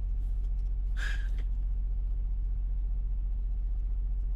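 Steady low rumble of an idling semi-truck diesel engine, with a brief soft noise about a second in.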